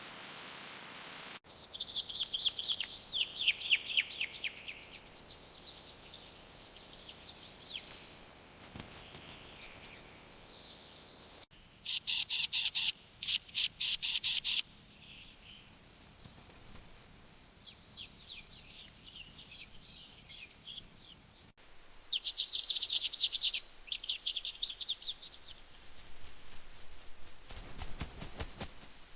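Songbirds singing: high-pitched rapid trills and chirping phrases that break off abruptly twice and start afresh, with a brief rustling noise near the end.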